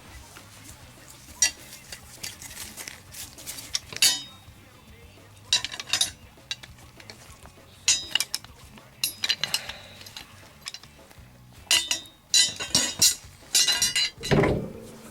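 Wire closet shelving and its metal hardware clinking and rattling as they are handled, in scattered clusters of sharp metallic clinks, with a heavier knock near the end.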